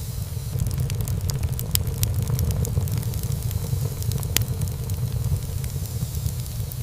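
Wood fire burning in a fireplace: a steady low rumble of flame with frequent small crackles and pops of burning wood, one sharper pop about four seconds in.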